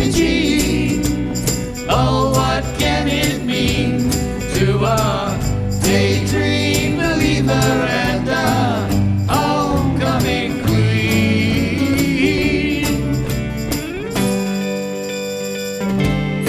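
Live band playing an instrumental break: bass and drums with jingling percussion, and a lead line wavering up and down in pitch over the top. About fourteen seconds in the lead drops out and the band moves to held chords.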